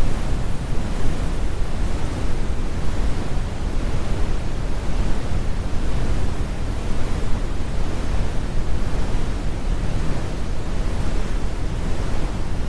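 Steady, deep brown noise: a constant rumbling hiss, strongest in the lows with the highs rolled off, like a distant airplane cabin or ocean.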